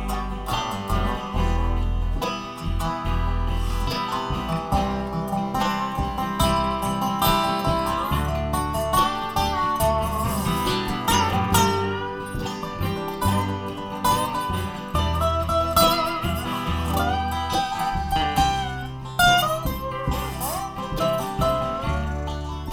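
Live acoustic bluegrass band playing an instrumental break: picked guitar and banjo lines over a steady bass line.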